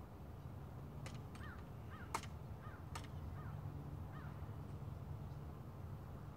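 Steady low wind rumble with three sharp clicks from a .22 PCP air rifle, the loudest about two seconds in. Five or six short, rising-and-falling bird calls are scattered through the first four seconds.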